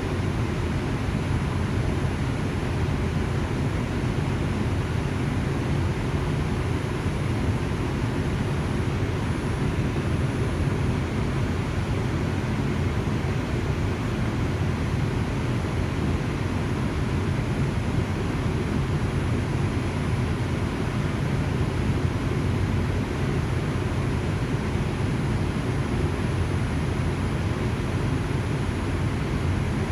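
Steady rumble of an R142 subway train running at speed, heard from inside the car: wheels on the rails and running gear, even throughout, with a faint steady whine above.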